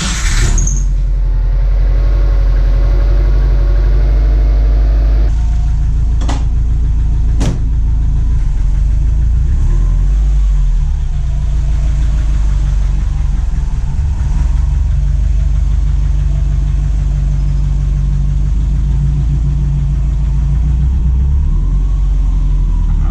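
2004 Subaru Forester XT's turbocharged flat-four engine idling steadily just after starting, freshly filled with oil at its break-in oil change. Two sharp clicks a little over a second apart come some six seconds in.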